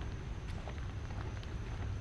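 Light rain outdoors: scattered drops tick over a steady low rumble, with a faint steady high-pitched hum.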